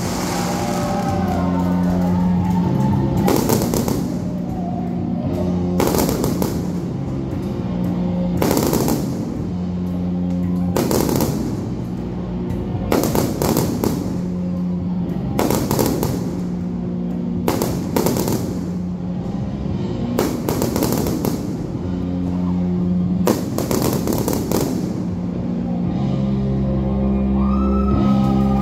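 Music playing with a steady beat, with fireworks bursting and crackling over it in sharp bangs every two to three seconds.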